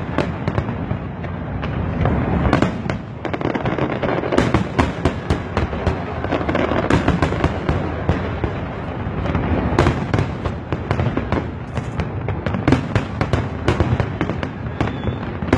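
Fireworks display going off without pause: dense, rapid bangs and crackling over a heavy low booming of many shells bursting close together.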